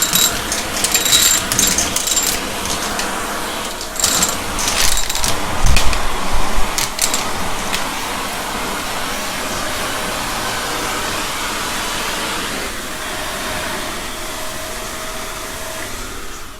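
Shark vacuum cleaner running steadily with a faint whine. Through the first half, clicks and rattles of debris from a mess test are sucked up, loudest about five seconds in. After that the motor runs smoothly.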